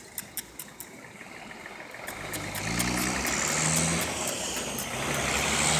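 A road vehicle's engine running as it approaches, growing louder from about two seconds in. A run of faint quick clicks comes first.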